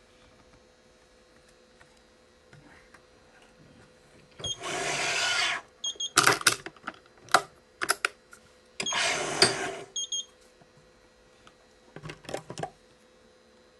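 Badminton string being drawn through the racket frame's holes: a zipping rasp of about a second, twice, with sharp clicks and snaps of the stringing work in between.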